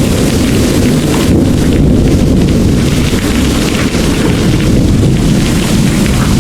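Heavy rain pouring steadily with a continuous deep rumble of distant thunder underneath.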